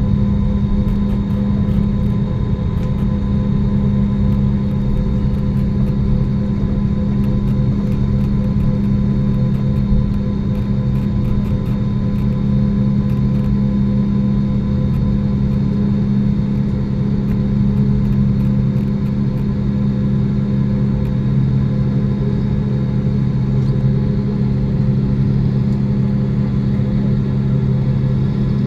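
Steady cabin hum inside an Airbus A320neo airliner: engine and airflow drone made of several constant tones, with no change in pitch or level.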